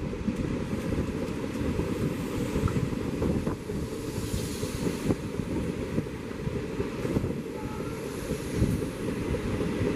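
Wind buffeting the microphone over the steady rumble of two Indian Railways passenger trains passing each other at speed on adjacent tracks.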